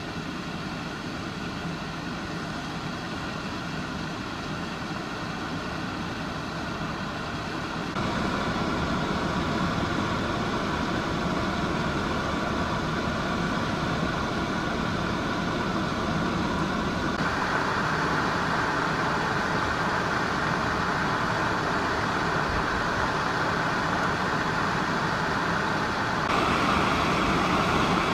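Steady rumbling hiss of blizzard wind mixed with a running vehicle, with a faint steady hum. It jumps abruptly louder about eight seconds in and again near the end.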